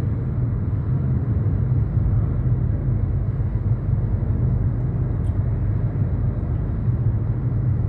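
Steady car road noise and engine rumble heard from inside the cabin while driving at speed on a motorway.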